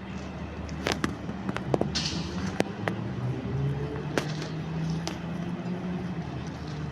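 Steady low drone of a motor ship's engine, with several sharp clicks and knocks over it and a brief hiss about two seconds in.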